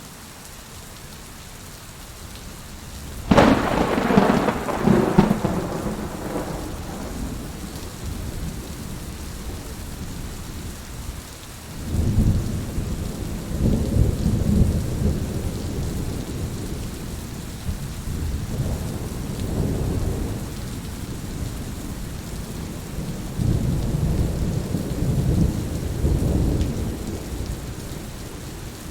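Heavy rain falling steadily through a thunderstorm. About three seconds in comes a sudden sharp crack of nearby thunder that rolls away over several seconds, and low rumbles of thunder swell again several times later on.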